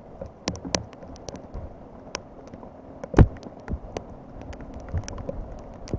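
Raindrops tapping irregularly close to the microphone over a steady hiss of rain, with one louder thump about three seconds in.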